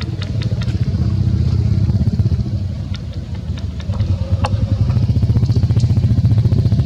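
A small engine running steadily with a low, rapid pulsing throb. A few faint clicks sound over it.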